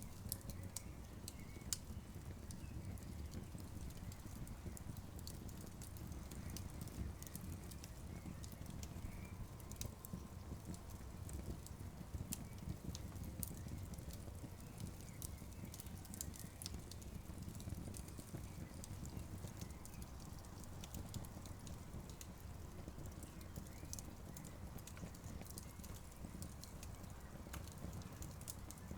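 Campfire burning steadily, with a low rumble of the flames and frequent small crackles and pops from the burning wood.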